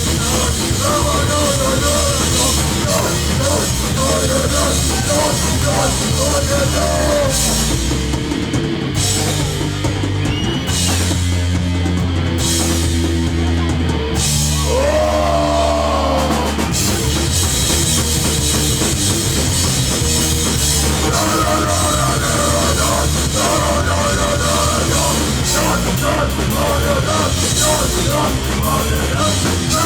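Live hardcore punk band playing loud, with distorted guitar, bass and drums. The cymbals drop out for a stretch in the middle, then the full band crashes back in.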